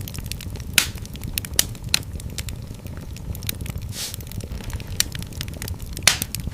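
Wood fire crackling and popping over a low steady rumble, with scattered sharp pops, the loudest about a second in, near two seconds, at four seconds and near the end.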